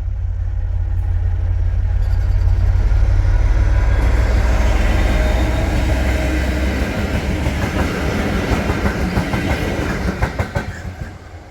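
A convoy of three Class 66 diesel-electric freight locomotives, with two-stroke V12 engines, passing: a deep engine rumble builds to a peak, then gives way to wheels clicking over rail joints, dying away near the end.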